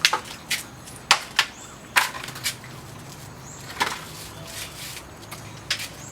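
A series of irregular sharp clicks and knocks, about eight over six seconds, over a faint steady low hum.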